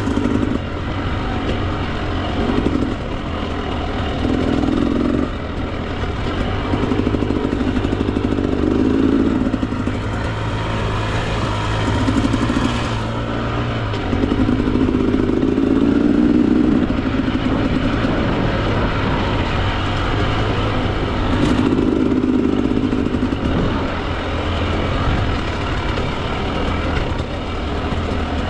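Husqvarna TE 300 two-stroke enduro dirt bike engine on a technical trail, revving up and dropping back in repeated throttle bursts every one to three seconds.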